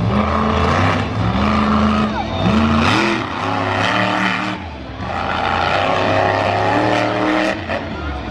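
Monster truck engine revving hard, its pitch climbing in bursts and easing off with the throttle, dropping briefly about five seconds in.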